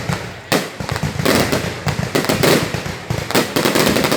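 Fireworks going off in a rapid, dense string of bangs and cracks, with a short lull just before half a second in.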